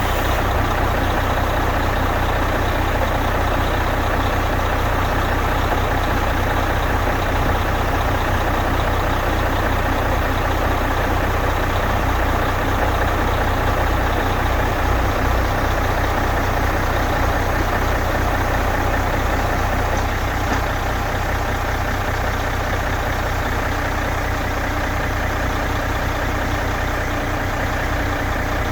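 Mercedes-Benz Actros 2541 truck's diesel engine idling steadily, with a slight drop in level about 20 seconds in.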